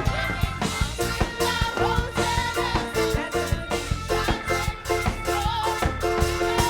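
Upbeat gospel worship music with a steady, driving drum beat under held chords: an instrumental passage between sung lines of the song.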